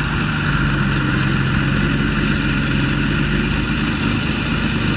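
A heavy vehicle's engine running steadily at an even pitch, without revving up or down.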